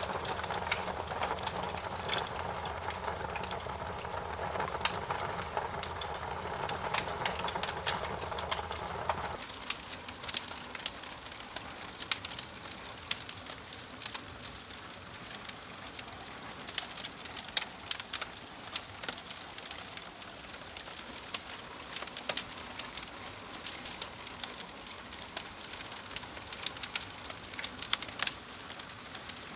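Wood fire crackling, with frequent sharp, irregular pops and snaps. For the first nine seconds or so a steadier low background sound runs underneath and cuts off suddenly.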